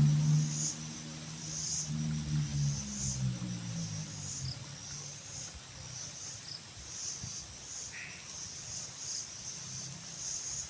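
Insects chirping in high-pitched pulses, roughly one or two a second, with a low engine hum that fades out in the first few seconds.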